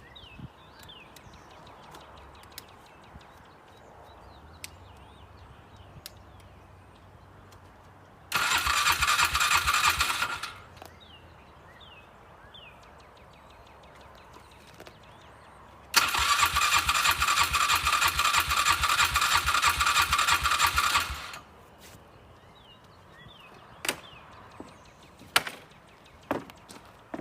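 Polaris 500 HO ATV engine cranked on its electric starter twice, first for about two seconds and then for about five, with a steady whine and pulsing rhythm but never catching: the engine fails to start. A few sharp clicks follow near the end.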